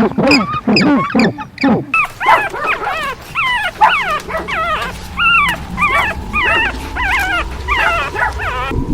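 Dogs yipping and whimpering: a quick run of short, high calls, about three or four a second, lower-pitched for the first couple of seconds. They stop abruptly near the end.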